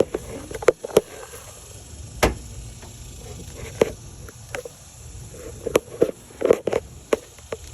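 Irregular clicks and knocks of small tools and parts being handled at an engine bay, the loudest knock about two seconds in.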